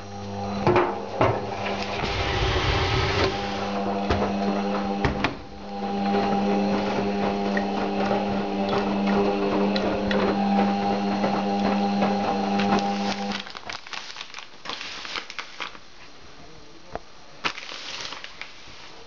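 Beko washing machine running with a steady motor hum that breaks off briefly once and stops abruptly about two-thirds of the way through. Light clicks and short swishes follow.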